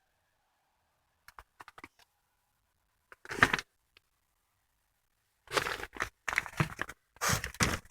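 Firework packs being handled: a few light clicks, a short loud rustle about three seconds in, then crinkling and rustling of packaging from about halfway on.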